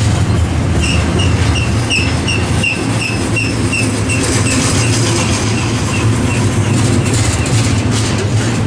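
Freight train cars rolling past with a steady low rumble. From about a second in, a high chirp repeats about three times a second for some three seconds.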